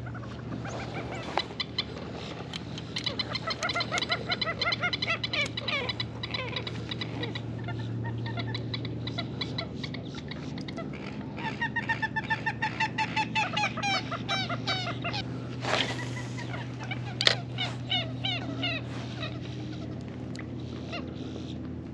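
Birds calling in long runs of quick, repeated notes, clucking and honking, over a low steady hum.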